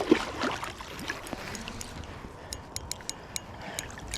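Fishing reel clicking in a quick run of sharp ticks over the last second and a half while a hooked carp is being played, over a steady rush of river water.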